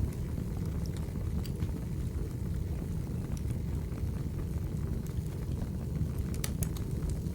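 Wood fire burning with a steady low rumble and scattered sharp crackles and pops, a quick run of them about six and a half seconds in.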